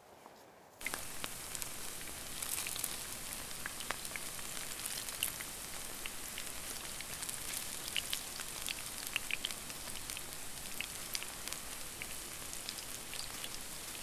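Battered fatsia shoots frying in oil in a pan: a steady sizzle full of small crackles and pops, starting suddenly about a second in.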